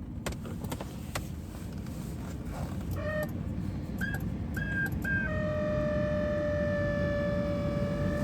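Steady low rumble of a pickup's cab heater fan blowing, growing a little louder, with electronic warning tones from the dashboard: a short tone, three short high beeps, then one long steady tone.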